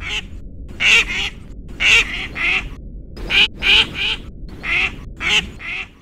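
A cartoon bird's voice: a string of short, duck-like calls in the rhythm of speech, about a dozen syllables in six groups, standing in for the bird's subtitled line.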